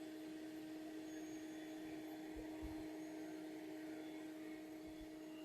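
A steady low hum, one even tone with a fainter overtone, under a faint hiss, with a few soft knocks about halfway through.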